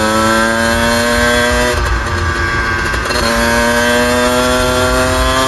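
Suzuki RM125 two-stroke single-cylinder engine accelerating on the road, its pitch climbing steadily, dropping with an upshift about two seconds in, then climbing again through the next gear. Wind rumble on the microphone underneath.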